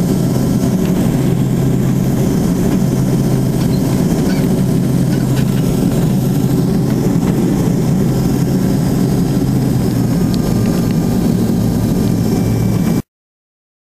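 Cabin of a Dornier 328 turboprop in its climb after takeoff: the twin propellers and engines drone steadily with a strong low hum. The sound cuts off abruptly near the end.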